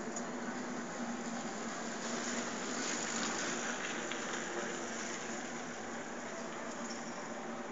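Unexplained droning noise from the night sky: a steady low hum under a rushing hiss, which swells about three seconds in and then settles back.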